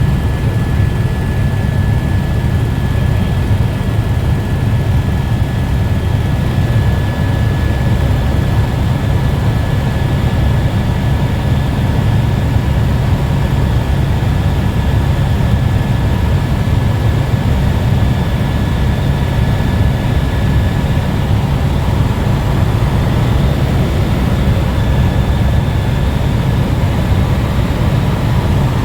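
Helicopter in flight heard from inside the cabin: a loud, steady low rumble of rotor and engine with a thin constant whine above it.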